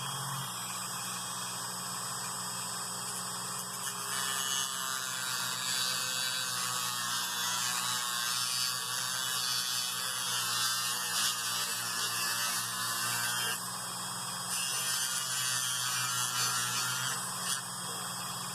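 Small high-speed electric rotary tool running while cutting down a plastic wheel part; its sound grows louder and rougher as it bites into the plastic, easing off briefly about two-thirds through.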